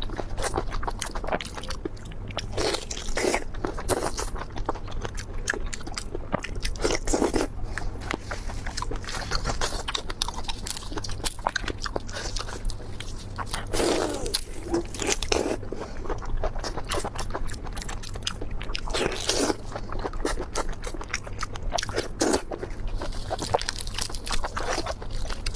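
Close-miked eating: repeated crunchy bites and chewing, a quick irregular run of crackling clicks with louder crunches every second or two.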